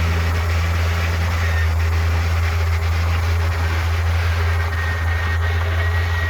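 Heavy diesel engine of earthmoving machinery running steadily with a deep, constant low hum; a faint thin whine comes in near the end.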